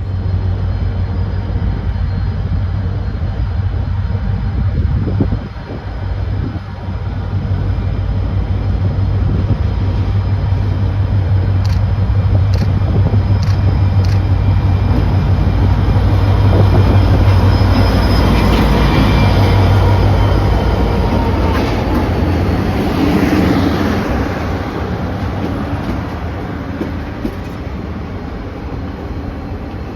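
Diesel locomotive hauling a passenger train as it departs, its engine running with a steady low hum. The sound grows louder toward the middle, with a few sharp clicks, then gradually fades.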